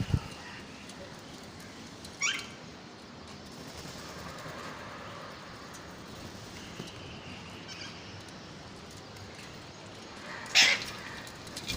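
Hand-reared parrot chicks giving two short, harsh calls, one about two seconds in and a louder one near the end, over a faint steady background hiss.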